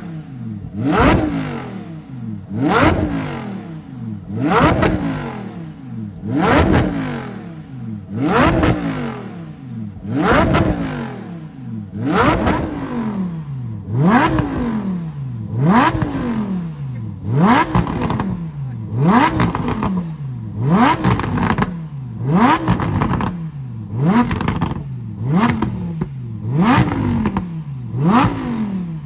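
Lamborghini supercar engine and exhaust being revved again and again while standing still. About sixteen quick blips, each rising sharply in pitch and dropping back toward idle, coming slightly faster toward the end.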